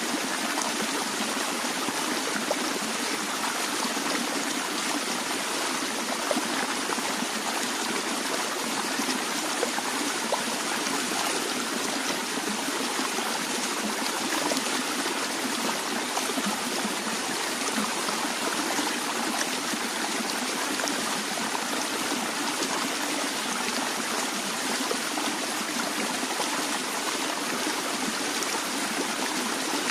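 Stream water flowing steadily over stones, an even rush and trickle with no breaks.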